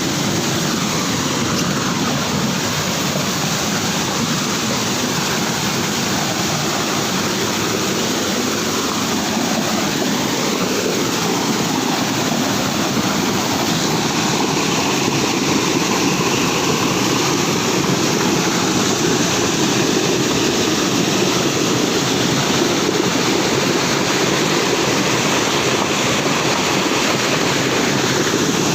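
Steady loud rush of a small waterfall, growing a little louder in the second half.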